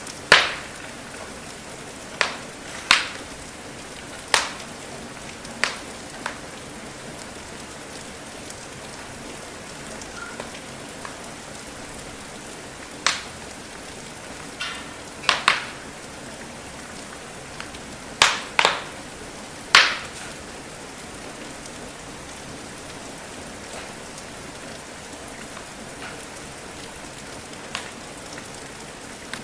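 Steady hiss of falling rain with irregular sharp pops and snaps from a crackling wood fire, about a dozen, bunched in places with gaps of several seconds between.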